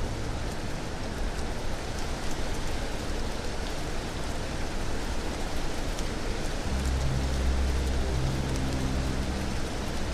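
Steady rain falling, an even hiss with faint scattered drop ticks. About seven seconds in, low held droning tones come in underneath.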